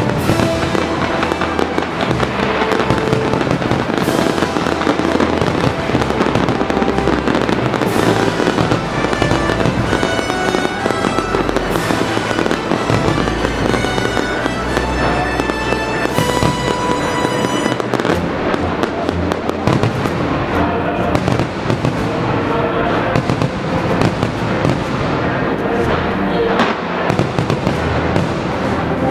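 Aerial fireworks bursting in a continuous barrage, with a sharp loud burst about every four seconds, while music plays along.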